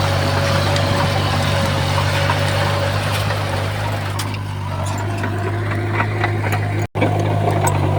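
Heavy earthmoving machine's diesel engine running steadily, with scattered light clicks and knocks in the second half. The sound cuts out for an instant about seven seconds in, then resumes.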